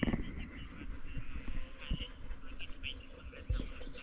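Rural outdoor ambience: scattered short, high chirps from small creatures, with irregular low thumps on the microphone, the strongest at the very start and about three and a half seconds in.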